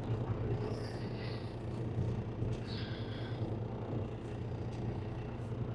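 Truck engine running steadily, a low even drone.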